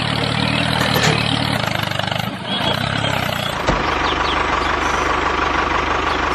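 A machine motor running steadily, its sound shifting to a lower, rougher drone with a thin high whine a little over halfway through.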